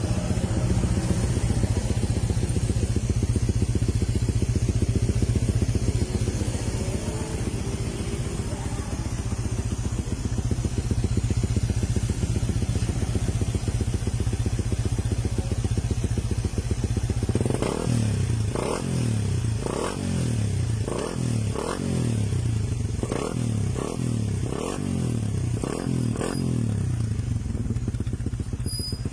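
Suzuki Raider 150 motorcycle's single-cylinder four-stroke engine idling steadily through an aftermarket exhaust, then revved in a quick series of about a dozen throttle blips in the second half.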